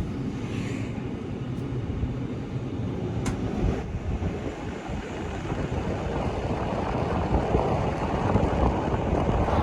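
Rhätische Bahn regional train running: a steady rumble of wheels and running gear that grows a little louder toward the end, with one sharp click about three seconds in.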